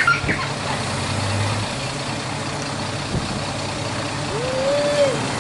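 Diesel railcar engine idling steadily, with a short tone that rises and falls near the end.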